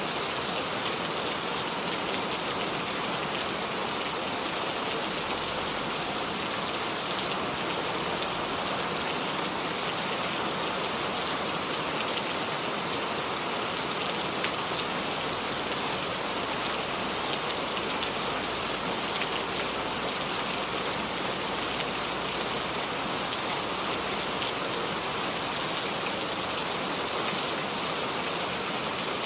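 Steady rain falling on a roof: an even hiss of many drops, with fine pattering.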